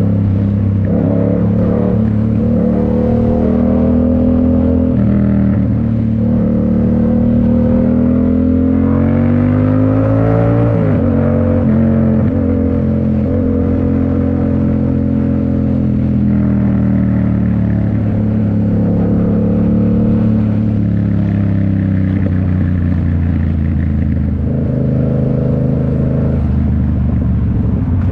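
Yamaha MT-07's parallel-twin engine breathing through a Toce full exhaust while riding. The engine note climbs and falls with the throttle and drops sharply at several gear changes.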